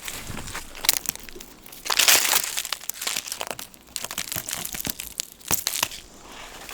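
Irregular bouts of crinkling and crunching rustles, the loudest about two seconds in.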